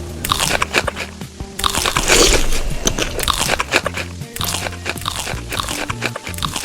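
Crunchy food being bitten and chewed close to the microphone, a quick run of crisp crunches, loudest about two seconds in, over background music.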